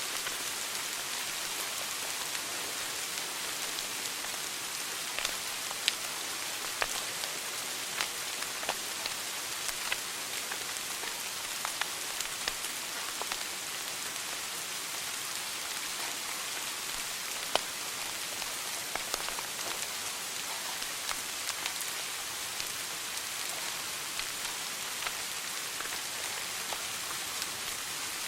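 Wood fire burning in a fireplace: a steady hiss with irregular sharp crackles and pops, a few of them louder.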